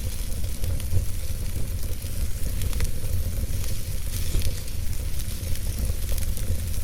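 Logs burning in a fireplace: a steady low rumble and hiss of the flames with scattered small crackles and pops.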